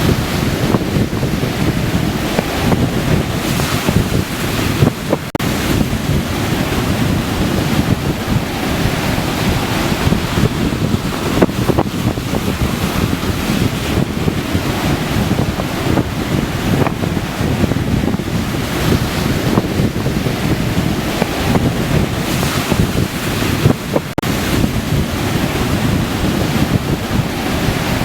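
Waves breaking and washing on a beach, with gusty wind buffeting the microphone.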